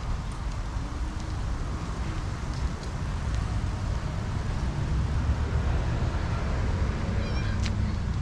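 Wind buffeting the microphone, a steady low rumble that grows a little stronger. About seven seconds in, a short run of quick high chirps, like a bird call.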